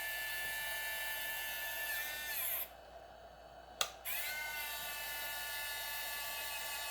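Yuneec Typhoon H's retractable landing-gear motors whining steadily as the legs travel, working after repair. The whine stops with a bend in pitch about two and a half seconds in. A sharp click comes near four seconds, then the whine starts again.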